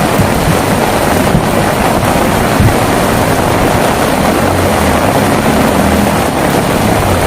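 Heavy rain pouring steadily, a loud even hiss, with a low rumble underneath that swells in the second half.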